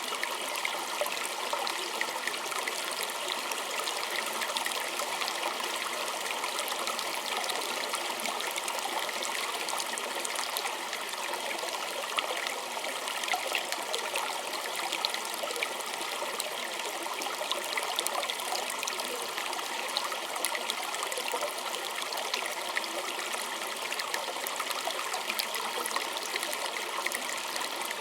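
A small stream trickling and splashing steadily over stones, a continuous bright babble of small water sounds.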